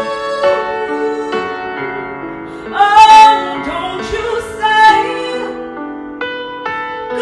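A singer's voice holding and bending long notes over piano chords, swelling loudest about three seconds in and again near five seconds.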